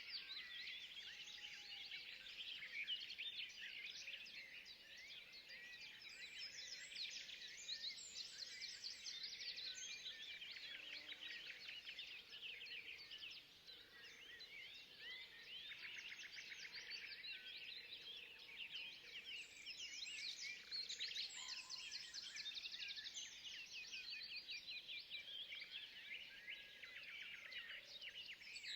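Many small birds chirping and twittering together in a forest, a dense, unbroken chorus of short high calls.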